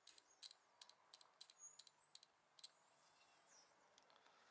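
Faint, quick, irregular light clicks from a Kawasaki Z1000 fuel injector being pulsed with a 9-volt battery on a homemade test rig during cleaning, about a dozen over the first two and a half seconds.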